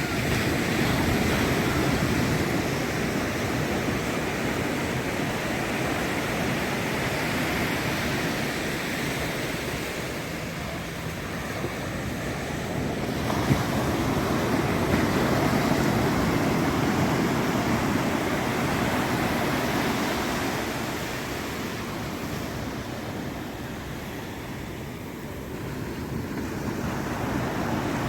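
Ocean surf breaking and washing up a sandy beach, a steady rush that swells and eases in two long surges.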